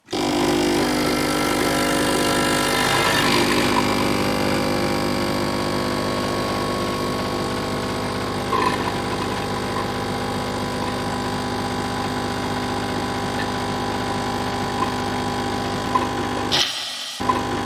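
A machine's motor running with a steady hum, starting abruptly and dropping out briefly near the end.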